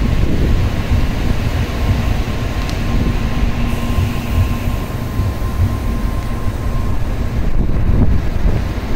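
N700-series Shinkansen train at the platform: a steady low rumble with a faint steady hum, the higher tone of which stops about seven seconds in.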